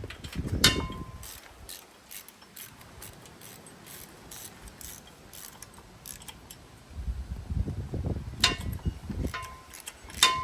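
Hand tools on metal while bolting an engine to an engine stand: a run of light clicks like a ratchet wrench, a few sharp ringing metal clinks, and low rumbling knocks near the start and again about seven to nine seconds in.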